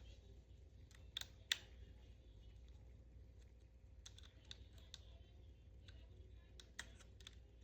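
Near silence broken by scattered small, sharp clicks, with two louder ones about a second and a half in and a run of faint ones near the end.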